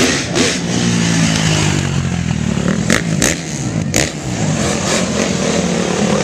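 KTM dirt bike engine running and revving, its pitch rising and falling, with a few sharp clicks about halfway through.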